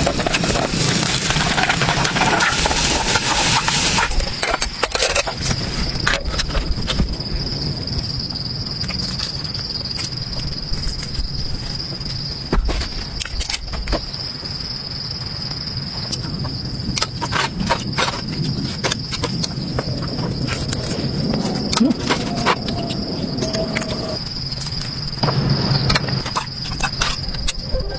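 Insects chirring in one steady, high, even tone, with scattered sharp clicks and knocks. A broad hiss runs for the first four seconds or so, then stops.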